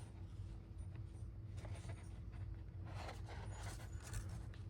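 Soft rustling and scraping of paper and craft materials being handled, a few brief scuffs over a low steady hum.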